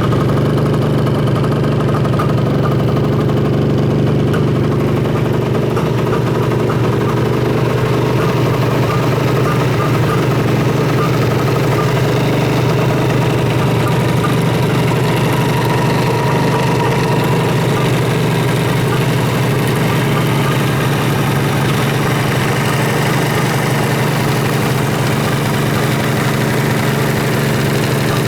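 Suzuki GT550's air-cooled two-stroke inline three-cylinder engine idling steadily, in running order.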